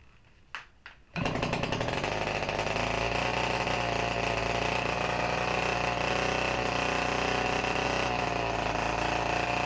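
The large-scale RC biplane's gasoline engine catches about a second in, after two short clicks, and then runs steadily at a fairly high speed. The pitch wavers slightly. It is started without choke, and the engine has not run in about ten years.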